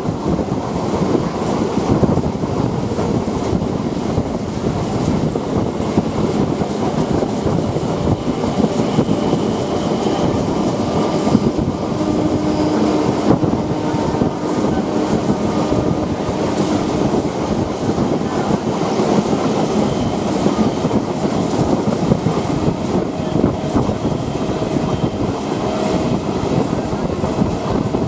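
Train running along the rails: a steady rumble and rattle with the clickety-clack of wheels over rail joints.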